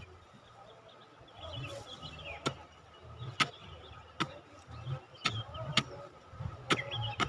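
About six sharp strikes of a digging tool into the ground, irregular and roughly one a second, as a serut shrub is dug out for bonsai material.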